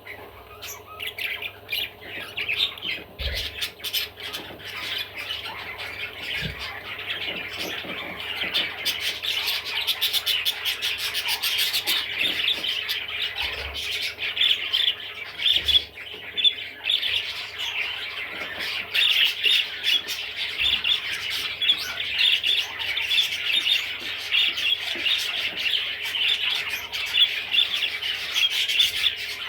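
Pet budgerigar chattering and warbling without a break, a fast run of scratchy chirps and squawks that starts about a second in.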